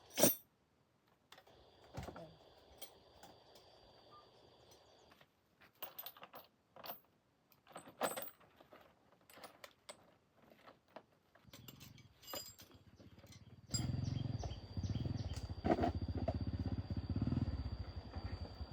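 Scattered clicks and knocks, then about fourteen seconds in an engine starts and keeps running with a steady, pulsing low sound.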